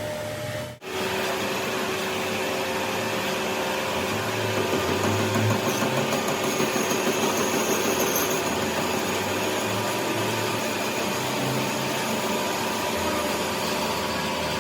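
A workshop machine running steadily with a motor hum, after a brief break about a second in.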